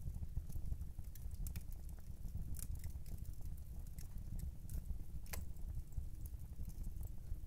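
Fire burning in a fireplace: a steady low rumble of flames with irregular crackles and pops, the sharpest pop about five seconds in. A clock ticks in the background.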